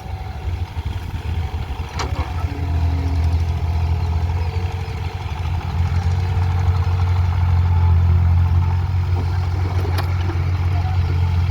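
Diesel engine of a JCB digging machine running with a steady low drone, growing louder about two and a half seconds in. Two sharp clicks or knocks, about two seconds in and near the end.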